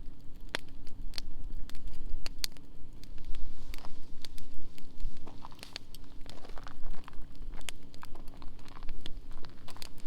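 Wood fire crackling in a fire pit, with frequent irregular sharp pops and snaps.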